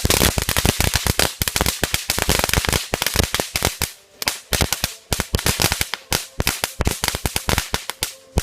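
A string of firecrackers going off in a rapid, irregular series of sharp bangs, with a short lull about four seconds in.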